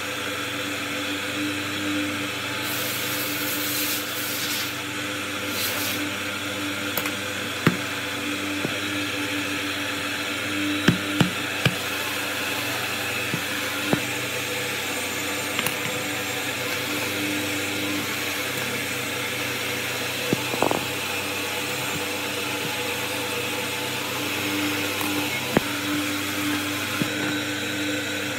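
A workshop machine's electric motor running steadily with a constant hum, while small hard clicks and knocks of metal parts being handled come every few seconds.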